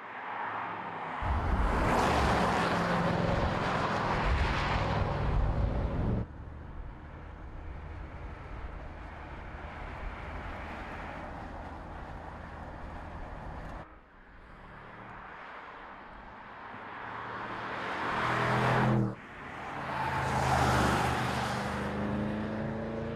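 2020 Audi S8's twin-turbo V8 accelerating hard through several passes, its engine note climbing in pitch, with a loud rush of tyre and wind noise as the car goes by. The sound changes abruptly at cuts between shots, about six, fourteen and nineteen seconds in.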